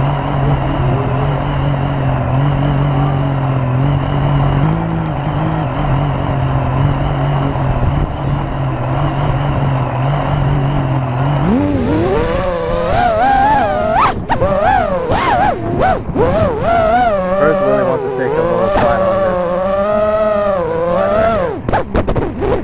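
FPV quadcopter motors running at a steady hum. About eleven seconds in the throttle comes up, and the motor pitch then rises, swoops and wavers as the quad flies under the load of the strapped-on whale.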